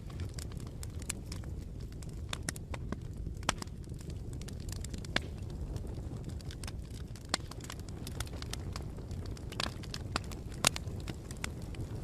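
Wood fire burning with irregular crackling over a low steady rumble, and a few sharper pops every second or two.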